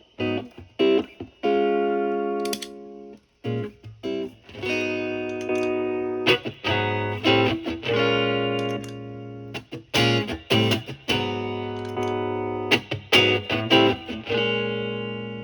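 Electric guitar (Fender Stratocaster with three single-coil pickups) played through a JHS Morning Glory v4 overdrive pedal into a Marshall Valvestate amp's clean channel, giving a light overdriven tone. Chords and double-stops are picked and left to ring, with quick picked runs between them.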